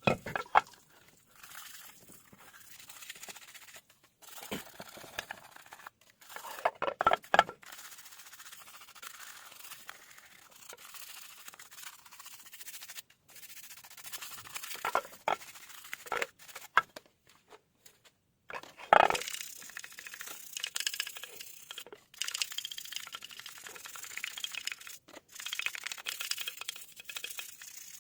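Scraping and scrubbing on hard parts with scattered knocks and clatter, in short pieces that cut off abruptly several times.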